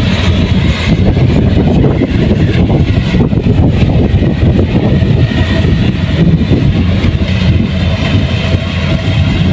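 Kubota rice combine harvester running steadily under load, a loud, even engine drone with a constant low hum.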